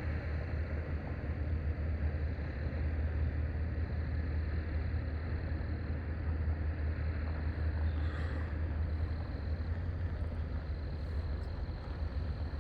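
Steady low rumble of a running engine, even throughout, with a brief faint higher sound about eight seconds in.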